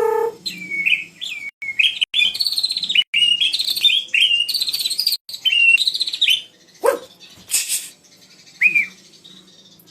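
White-rumped shama (murai batu) singing a fast run of varied whistled notes and sweeps that stops about six seconds in. A sharp falling note, a short harsh burst and one last whistled note follow.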